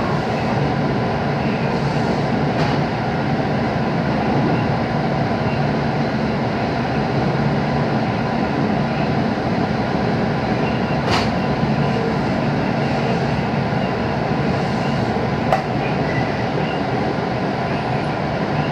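Steady running noise of a JR 221 series electric train heard from inside the car as it travels at reduced speed. Two sharp clicks come through, about halfway and again a few seconds later.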